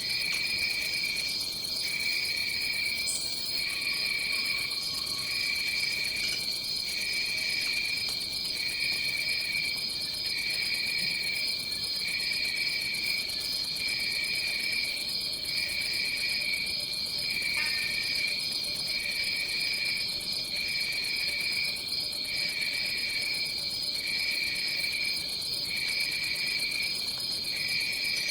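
Tropical rainforest insect chorus: a steady high-pitched buzzing drone, with a second insect calling in regular pulses about once a second, over a soft background hiss of the forest.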